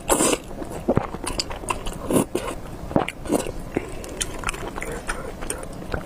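Close-miked eating of spicy beef noodles: irregular wet mouth clicks and smacks of chewing, with a short burst of noise at the start.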